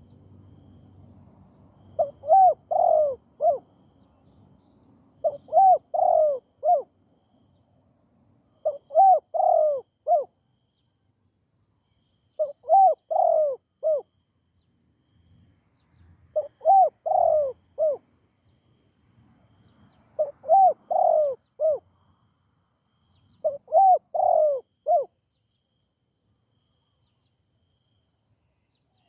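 Spotted dove cooing: seven phrases, each of three or four arched coos, one phrase about every three and a half to four seconds, stopping a few seconds before the end.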